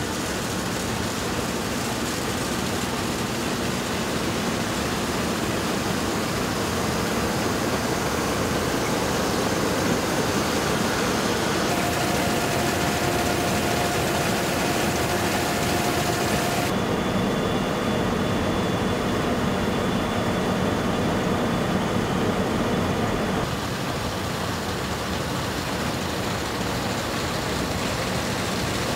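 Combine harvester running steadily during the rice harvest, a dense machine drone with engine and threshing noise. The sound shifts abruptly a few times.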